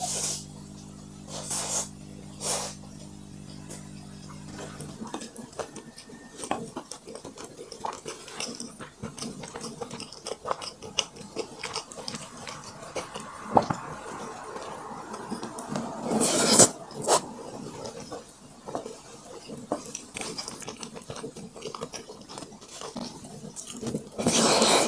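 Close-miked eating sounds of a person chewing braised pork, rice and sour radish: many small wet clicks of chewing and mouth noise, with a few louder noisy bursts near the start, about two-thirds of the way through and at the end. A low steady hum stops about five seconds in.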